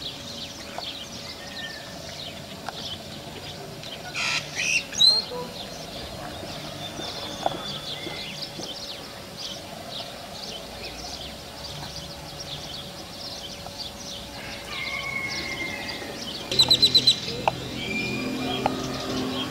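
Small birds chirping and twittering, many short high calls scattered throughout. A louder rapid run of about six sharp notes comes near the end.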